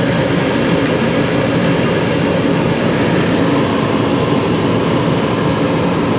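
Steady hum and rushing of air inside a 2006 Lincoln Town Car's cabin, with the climate-control fan running and the AC on while the car runs.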